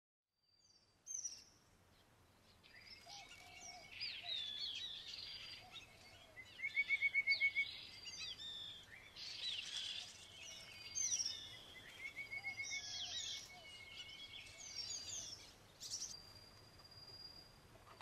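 A chorus of several forest songbirds singing and calling over one another: sweeping whistled phrases and chirps, with a loud, quick run of repeated notes about seven seconds in and another around twelve seconds.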